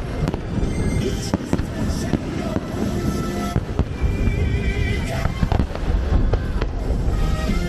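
Aerial fireworks exploding in a steady run of booms and crackles over a continuous low rumble, with show music playing over loudspeakers underneath.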